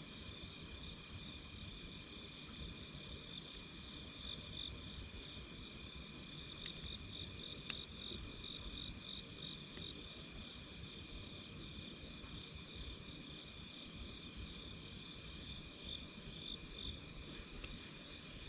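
Wood fire crackling softly under a steady high trill of night insects, with two sharp pops about seven and eight seconds in.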